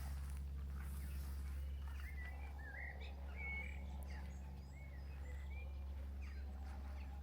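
Small songbirds chirping in short whistled notes that rise and fall, over a steady low hum.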